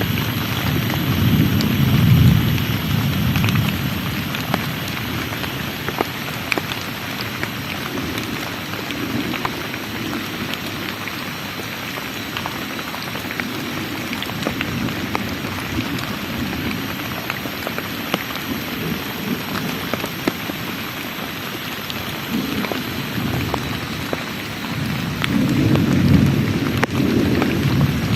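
Heavy rain falling steadily, with many drops ticking sharply on a nearby surface. Low rumbles swell up near the start, briefly in the middle and again near the end, the rolling of thunder in a thunderstorm.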